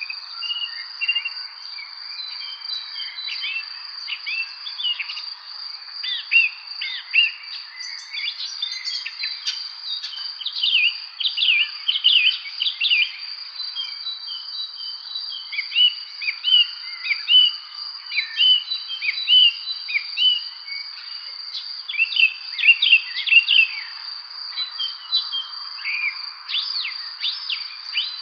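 Evening spring bird chorus: many short chirps and quick whistled notes from several birds, growing busier after the first few seconds, over a steady high-pitched insect trill.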